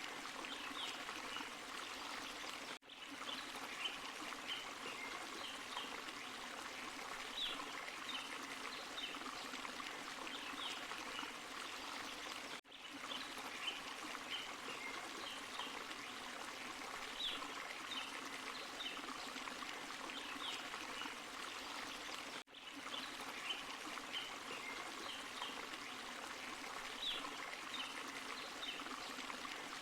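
Small forest waterfall and stream running with a steady rushing sound and bright splashing trickles on top. The sound dips out for an instant three times, about ten seconds apart.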